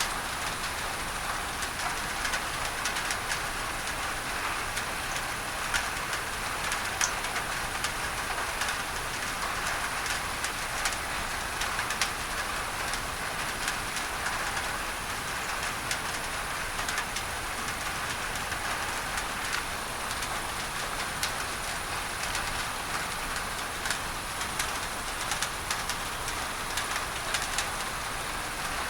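Steady rain falling on a tin roof, with many single drops ticking sharply all through, blended with an even hiss of added masking noise.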